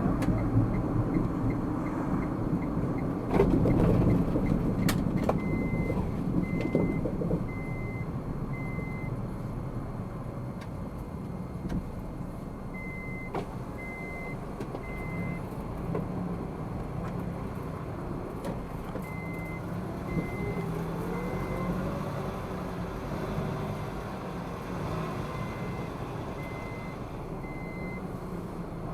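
Low hum of a car moving slowly, with a knock about three seconds in. A short electronic beep sounds in groups of three or four, each group coming every six to seven seconds.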